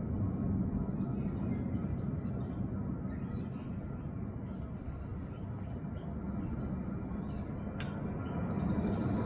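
A small songbird calling a run of short, high, downward chirps, about two a second, that die out after the first few seconds, over a steady low rumbling background. There is a single click near the end.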